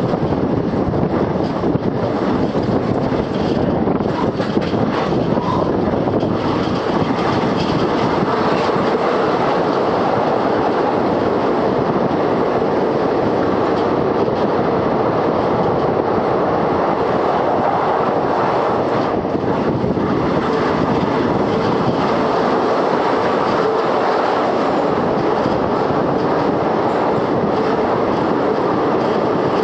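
Indian Railways express train's ICF passenger coaches running along the track, a steady, unbroken rumble of wheels on rails.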